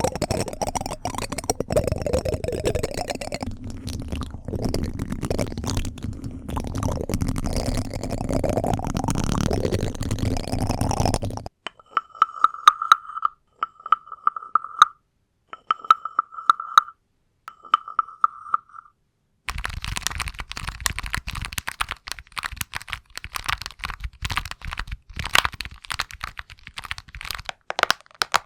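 Close-miked ASMR handling sounds: dense crinkling and rubbing, then a quieter stretch with four short steady beeps, then quick crackling and tapping clicks.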